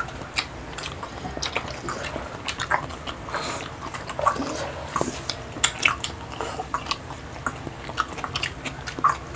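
People chewing and biting into food, an irregular run of quick wet mouth clicks and crunches.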